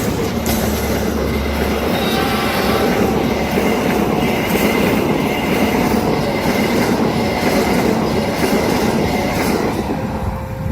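A train's carriages rolling past at speed, wheels clacking over the rail joints, with a thin wheel squeal on the curved track.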